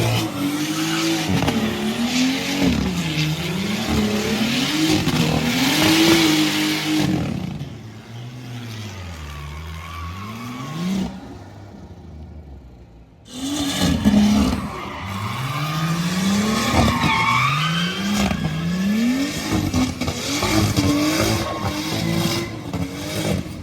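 A car spinning: its engine revving up and down over and over while the tyres screech. The revs sink lower and quieter about eight seconds in, nearly die away around thirteen seconds, then start again abruptly.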